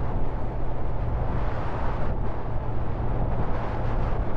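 Motorcycle on the move, steady wind rush over the helmet and microphone with a constant low engine and road drone underneath.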